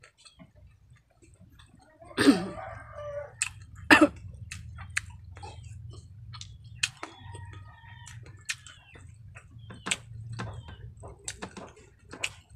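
Close-up mouth sounds of chewing crispy deep-fried baby crabs: irregular sharp crunches and crackles of the fried shells. The loudest crunches come about two and four seconds in.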